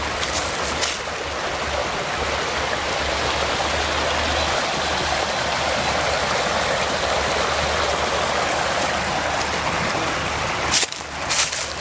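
Water rushing over rocks at a small woodland waterfall, a steady even rush. A few sharp clicks sound about half a second and a second in, and a louder cluster comes near the end.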